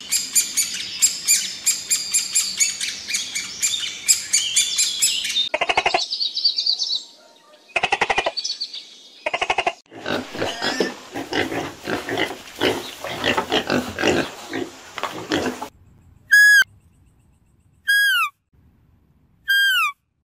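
A run of animal calls: about five seconds of dense, high-pitched bird chirping, then piglets squealing, in short bursts and then many together for about six seconds. Near the end come three short whistles, each falling in pitch.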